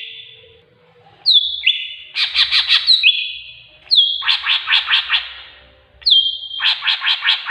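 Bird calling in three phrases. Each phrase is a short downward whistle into a held note, followed by a quick run of about six harsh notes.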